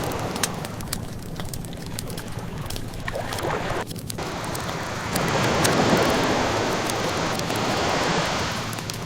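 Ocean waves washing ashore, one swell rising about five seconds in and easing off near the end, with the scattered small crackles and pops of a wood fire.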